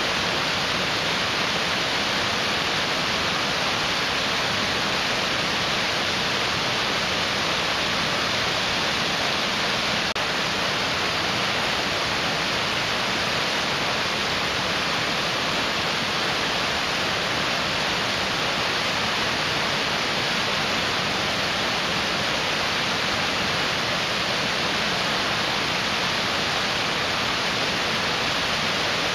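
Mountain stream rushing steadily over rocks, a constant even hiss of water with no change in level.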